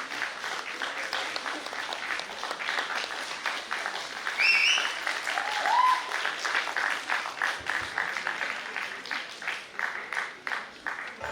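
Audience applauding with dense clapping. A rising whistle is heard about four and a half seconds in, followed by a lower rising call.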